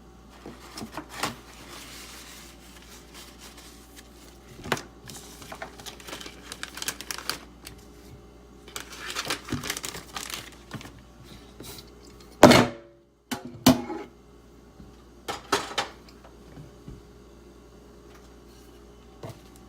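Handling noise at a knife-sharpening bench: irregular clicks, light knocks and short scraping passes, with one loud sharp click a little past the middle.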